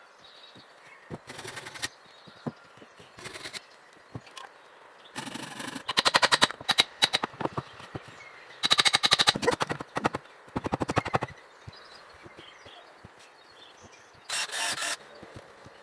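Repeated short bursts of rapid, even clicking or rasping, like a hand tool working wood, each lasting a second or two. The loudest bursts come about six and nine seconds in.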